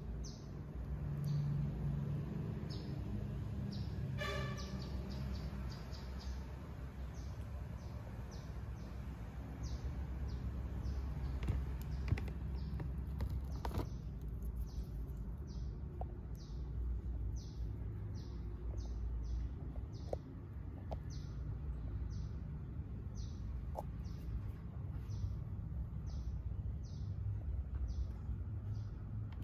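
A small bird chirping over and over, short high falling chirps about one to two a second, over a steady low rumble.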